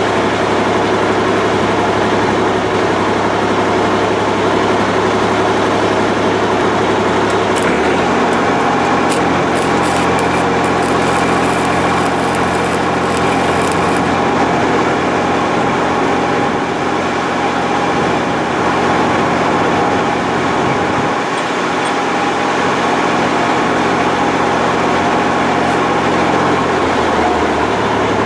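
An engine running steadily. Its low hum steps to a different speed about eight seconds in and shifts back near the end.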